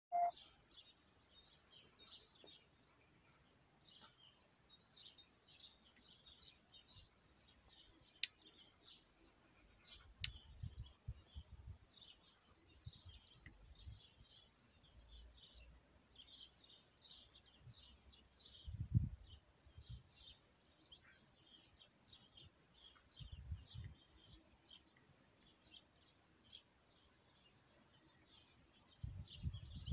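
Small birds chirping faintly and continuously, with two sharp clicks and a few soft low thumps.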